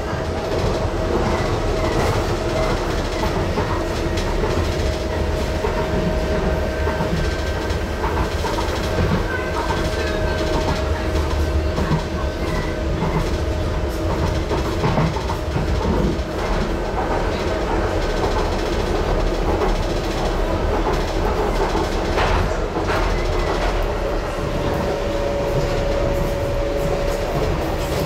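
Docklands Light Railway train running along the track: steady wheel and running noise with a constant motor whine and a few sharp clicks from the rails.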